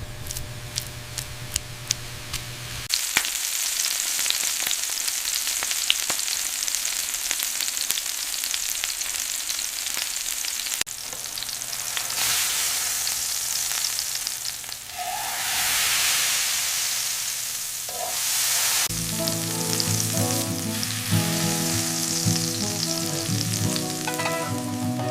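Burger patties frying, with a steady sizzle and a few sharp clicks in the first seconds. Music with a tune comes in about three-quarters of the way through, over the sizzling.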